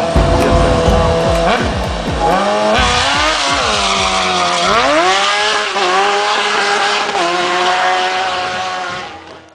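Music with a beat for the first few seconds, then a car engine revving, its pitch rising and falling several times. It fades away near the end.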